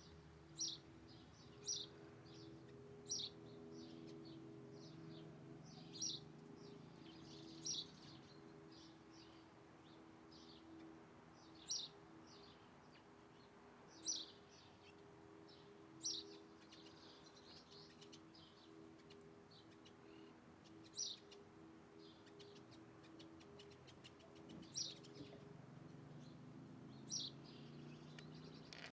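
A bird calling with about a dozen short, sharp high chirps, spaced irregularly a second to a few seconds apart, over a faint steady low hum.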